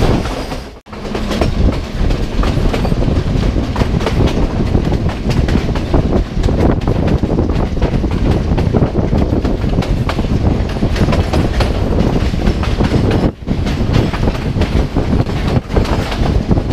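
Passenger train running at speed, its wheels clattering over the rail joints in a steady loud rumble, with a brief drop-out about a second in and another short dip later.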